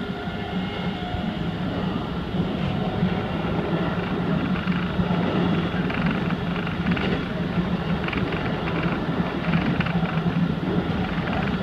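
Keikyu 2100 series electric train running along the line, heard from inside the cab: a steady rumble of wheels on rail with a constant low hum.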